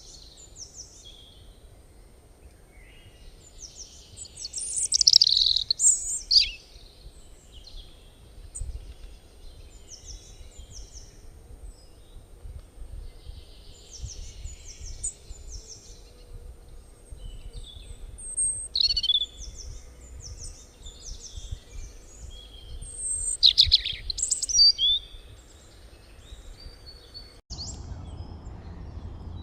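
Birds chirping and calling in short, high, repeated notes and trills, with louder bursts about five seconds in and again near the end. The birdsong stops abruptly and a steady low noise takes over.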